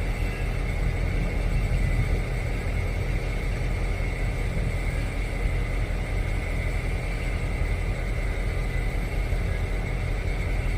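Steady low mechanical rumble with a constant high-pitched whine over it.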